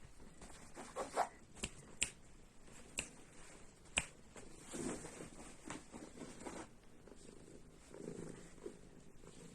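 Scottish kitten purring close up, the rasping purr coming in stretches with breaths between. A few sharp clicks sound over it in the first half.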